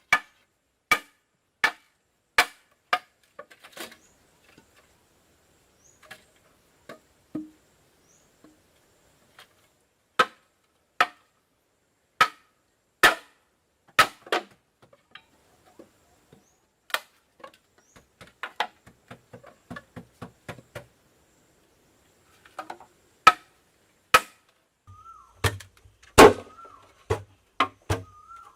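Repeated sharp strikes of a tool on wood, coming in irregular runs with short pauses. About 25 s in, a faint wavering whine joins the strikes.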